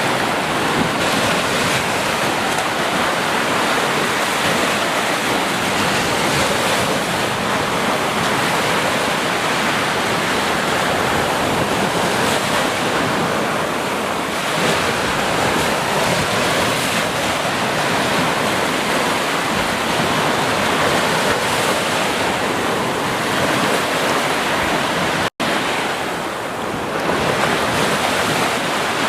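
Ocean surf washing onto a beach in a continuous rush, swelling and easing slowly. The sound cuts out for an instant about 25 seconds in.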